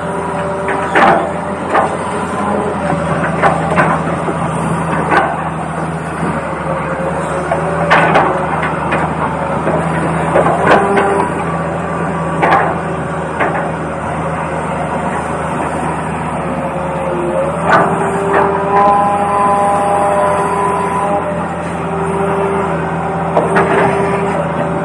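Small electric motors of a toy RC excavator whining in steady tones that start, stop and change pitch as the controls are worked. Sharp plastic clicks and knocks come every second or so.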